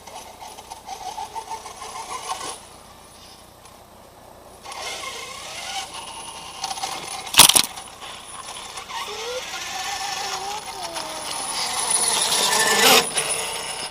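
Redcat MT RC monster truck on a Castle Creations brushless electric conversion, driving in bursts: the motor whine glides up and down under a hiss of tire and ground noise. A single sharp crack comes about seven and a half seconds in.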